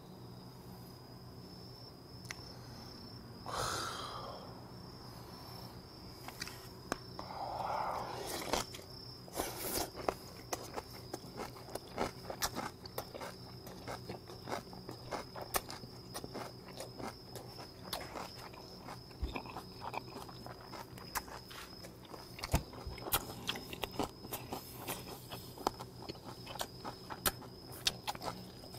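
Close-up chewing of grilled pork belly wrapped in freshly made napa cabbage kimchi: many small, wet, crunchy clicks of the mouth working. There are two soft breathy swells early on, and a faint steady high tone underneath.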